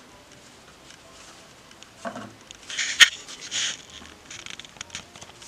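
Paper rustling as a folded paper guide is handled and opened, in short crackly bursts, with one sharp click about three seconds in.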